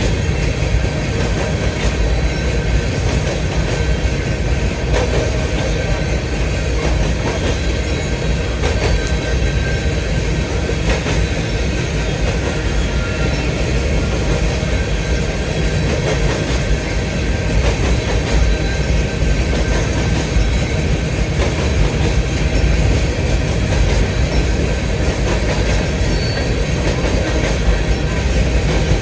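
BNSF grain train of covered hopper cars rolling past at steady speed: a continuous heavy rumble of wheels on rail with occasional clicks at rail joints and a faint high squeal.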